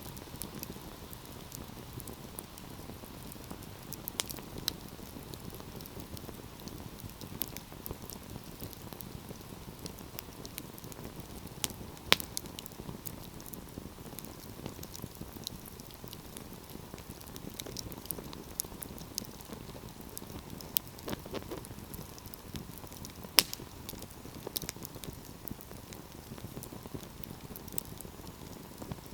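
Wood fire crackling in a fireplace: a steady low rush of burning with scattered sharp pops and snaps. The two loudest pops come about twelve seconds in and again near twenty-three seconds.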